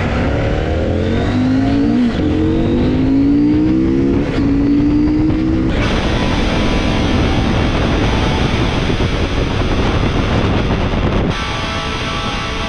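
Motorcycle engine accelerating hard, its pitch climbing and dropping back twice as it shifts up through the gears. From about halfway it gives way to a steady rush of wind and engine at cruising speed.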